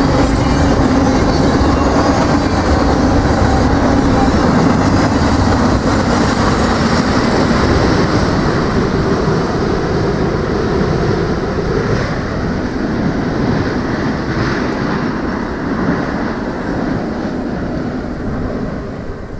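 A train passing close by at track speed, its wheels rolling over the rails in a loud, steady rumble that fades away near the end.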